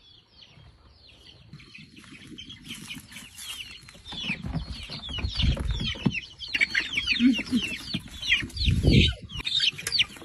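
A flock of chickens calling: many short, high calls that fall in pitch, overlapping and getting louder after the first couple of seconds. A few dull low thumps come about halfway through and again near the end.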